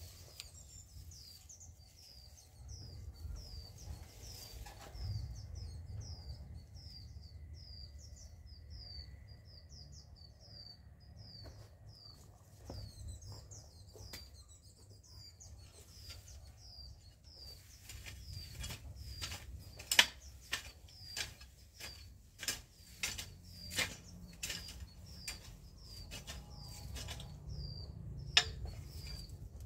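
A bird calling over and over, a short high falling chirp about twice a second, over a low rumble. From a little past the middle, a run of sharp snaps or knocks cuts in, two of them much louder than the rest.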